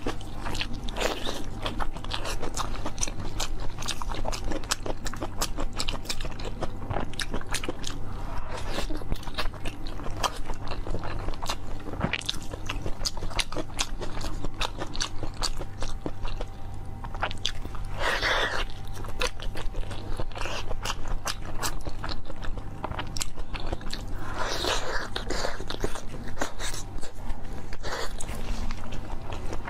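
Close-miked chewing and biting: wet mouth sounds with many small clicks, and two longer, louder wet bursts about 18 and 25 seconds in. A steady low hum runs underneath.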